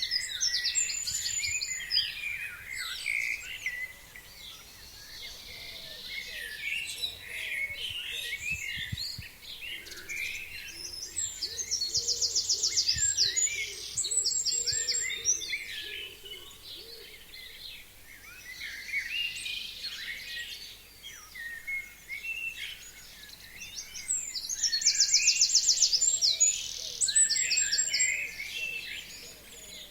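Forest songbirds singing in a chorus of many overlapping chirps and short phrases. One bird repeats a loud song three times, a fast run of even notes ending in a high flourish, about every twelve seconds.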